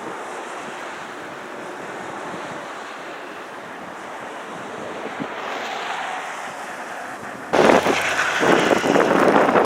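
Wind buffeting the microphone in a snowstorm: a steady rush, then a sudden, much louder blast of wind noise about three-quarters of the way through.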